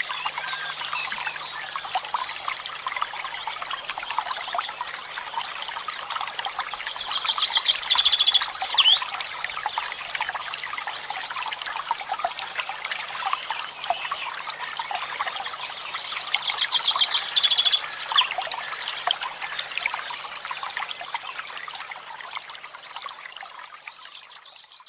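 Many small birds chirping and twittering together, with a loud rapid trill that comes twice, about 7 and 16 seconds in, over a faint steady low hum. The sound fades out near the end.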